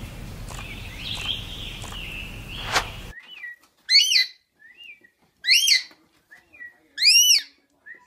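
Steady background hiss with faint high chirps, cut off abruptly at about three seconds. Then three loud, clear bird calls, each rising and falling in pitch, about a second and a half apart, with short softer chirps between them.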